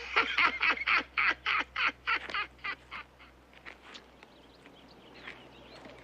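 Barnyard fowl calling in a rapid, excited run of about a dozen loud squawks that fade out over the first three seconds, followed by a few scattered softer calls.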